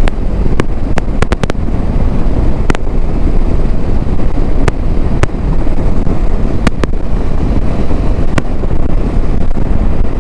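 Wind noise on a motorcycle rider's microphone at riding speed: a loud, dense low rumble, with about a dozen sharp crackles scattered through it. The mic is a Maono with foam and dead-cat covers on a GoPro Hero 11 Media Mod.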